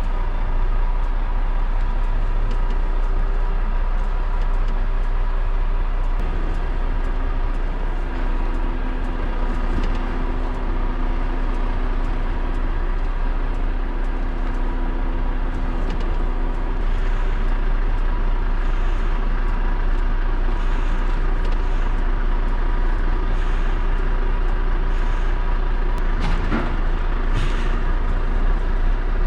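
Heavy goods lorry running steadily with a deep, constant rumble. A faint whine comes in for several seconds in the middle, and a short sweeping sound passes near the end.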